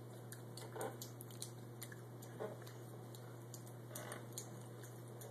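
Pet birds chewing and nibbling: faint, scattered small clicks and crunches, with three short soft sounds about a second, two and a half seconds and four seconds in.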